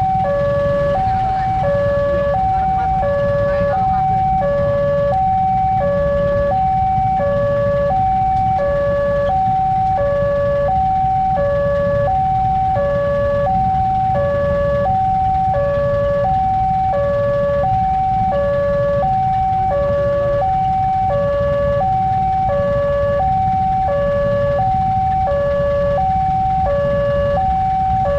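Railway level crossing warning alarm sounding continuously: an electronic two-tone 'teng-tong' signal alternating high and low, about one cycle a second, over a steady low rumble.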